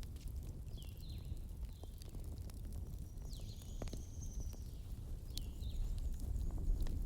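Wood fire burning with a steady low rumble and scattered sharp crackles and pops. Short high chirping tones sound on top several times, with one longer high whistle about three seconds in.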